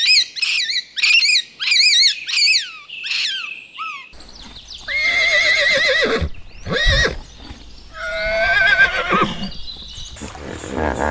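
Horses whinnying: a run of short, high, quavering calls, then three longer wavering whinnies that fall in pitch.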